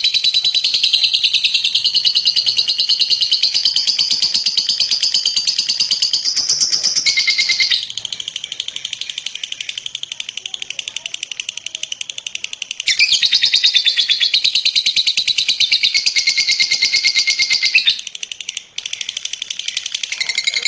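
Lovebird singing a long, unbroken 'ngekek' chatter: a very fast, high-pitched stream of notes that runs on without pause, dropping softer about eight seconds in, coming back loud near the middle, and softening again near the end.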